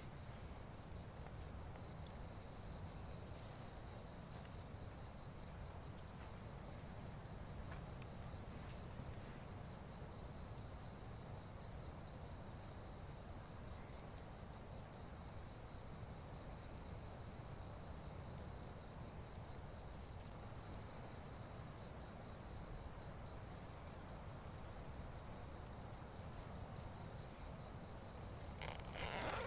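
Faint, steady chorus of crickets and other insects: a high, finely pulsing trill that does not let up. A short, louder sound falling in pitch comes right at the end.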